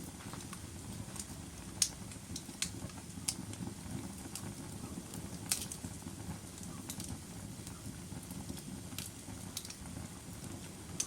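Wood fire of burning logs crackling, with sharp irregular pops and snaps over a steady low rumble of the flames.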